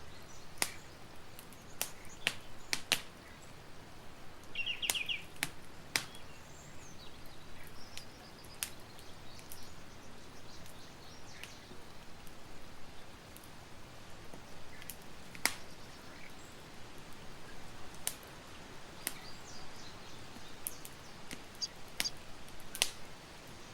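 Campfire crackling: a steady soft hiss with irregular sharp pops and snaps from the burning wood. A brief, quick chirp is heard about five seconds in.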